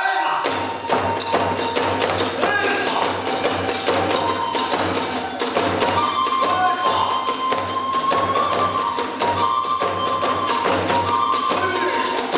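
Kagura hayashi accompaniment: a bamboo transverse flute holds a gently shifting melody over a steady drum beat and rapid strikes of small hand cymbals.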